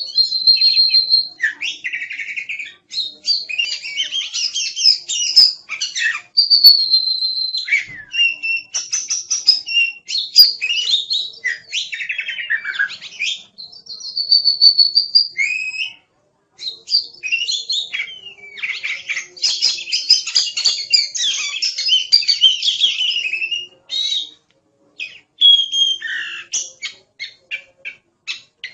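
Oriental magpie-robin singing a varied, loud song of clear whistles, sliding notes, rapid trills and harsh chirps, with a couple of short pauses.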